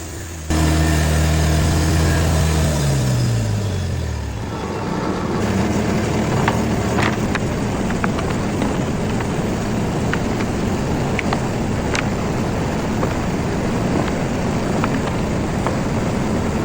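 Sawmill machinery: a motor's hum comes on about half a second in, then drops in pitch over a couple of seconds as it slows. A steady noisy rush with scattered sharp ticks follows.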